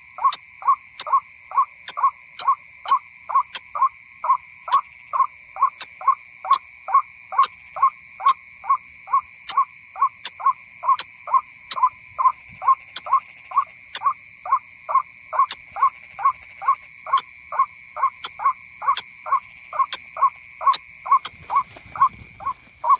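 White-breasted waterhen call played as a lure from an MP3 speaker: one short note repeated with machine-like regularity, about twice a second.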